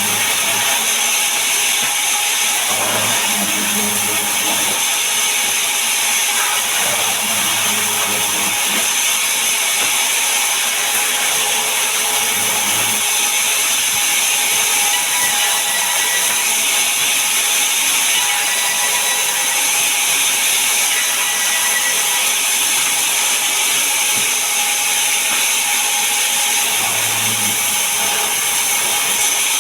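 Sawmill saw running steadily and cutting through a large mahogany log, with a low hum that swells a few times.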